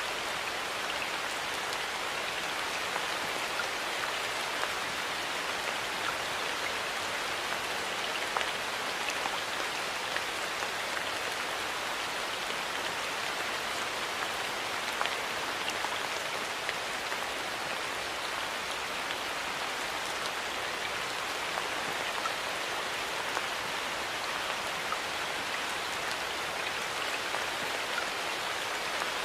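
Steady rain falling on surfaces: an even hiss with scattered individual drops ticking through it.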